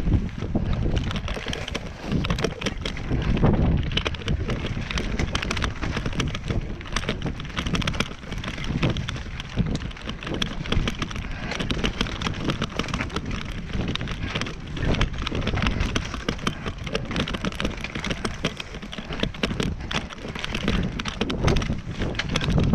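Strong wind buffeting the microphone in uneven gusts, with a constant crackling and rustling over the low rumble.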